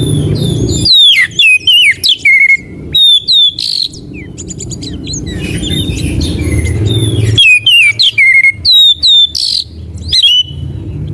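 Oriental magpie-robin (kacer) song in two bouts of quick whistled notes and chirps, about a second in and again past halfway, over a steady low hum.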